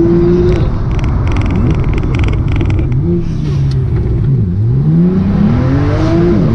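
Porsche 911 Turbo (991) twin-turbo flat-six, tuned to about 800 hp, heard from inside the cabin. The engine note climbs, drops at a gear change about half a second in, and falls as the car eases off around the middle. It then climbs steeply again under hard acceleration and drops at another shift near the end.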